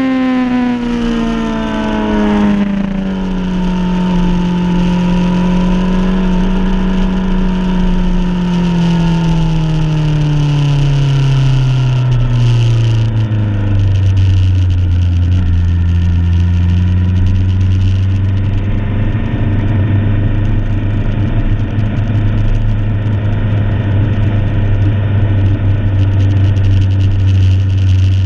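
Suzuki superbike engine with its revs falling steadily as the bike slows, then running low and steady at slow pace from about halfway on. Wind rush on the onboard camera fades as the speed drops.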